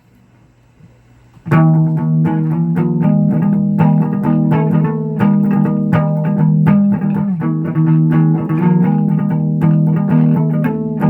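Plucked guitar music. After a quiet second and a half it comes in with a fast run of picked notes over held low notes, and keeps going steadily.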